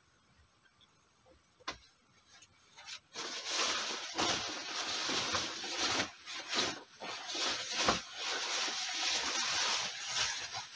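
Near silence with a single click about two seconds in, then, from about three seconds in, continuous rustling and scraping with many short knocks, like close handling of fabric or material.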